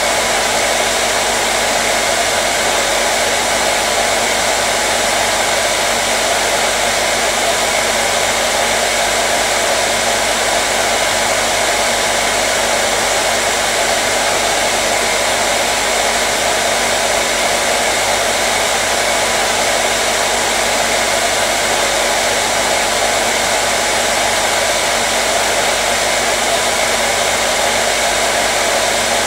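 Hair dryer running steadily: a constant, even rush of air with a faint motor hum.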